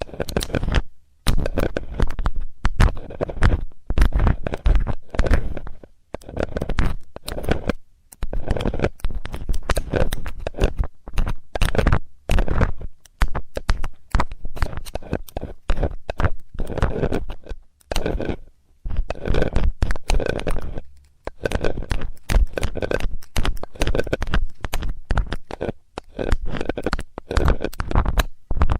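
ASMR ear-cleaning sounds: a metal tool scratching and scraping close to the microphone in quick, irregular runs, broken by short pauses every few seconds.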